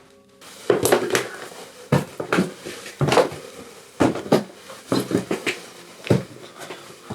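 Footsteps walking across a hard floor, with scuffs and knocks at about two steps a second.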